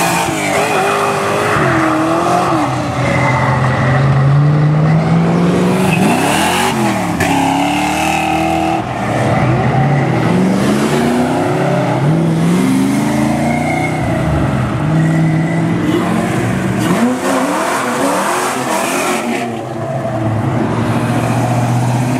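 Fox-body Mustang engines revving and accelerating hard, one after another, the engine note climbing in pitch and falling back again and again as the cars pull away and shift.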